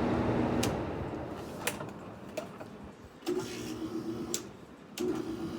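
Airflow hiss fading away, then a few sharp clicks and two short whirs of a small electric motor, each under about a second and a half.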